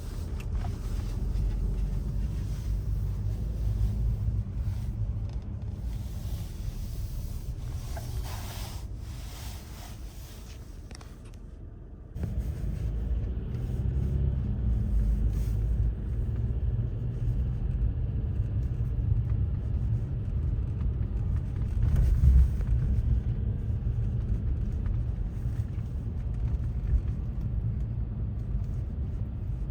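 Low, steady motor vehicle rumble. It drops off about eleven seconds in and comes back abruptly a second later.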